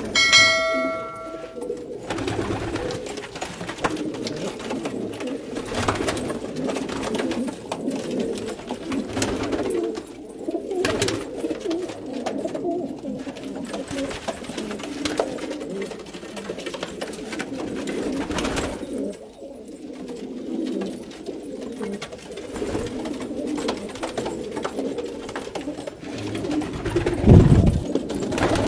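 Domestic pigeons cooing continuously, several birds overlapping. A short ringing tone sounds at the very start, and a loud thump comes near the end.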